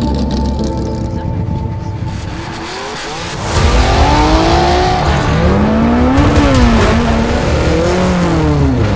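Rally car engine revving hard from about three and a half seconds in, its pitch rising and falling several times.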